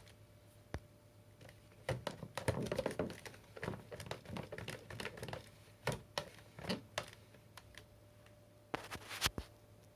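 Irregular light clicks and knocks of hard plastic parts being handled, with a dense flurry of clatter from about two to five seconds in and a few single knocks after.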